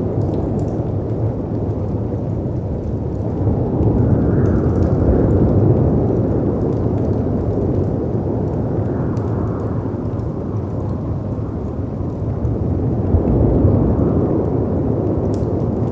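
Layered storm ambience: a deep, steady rumble of wind and surf that swells about four seconds in and again near the end, with faint crackles of a fireplace scattered above it.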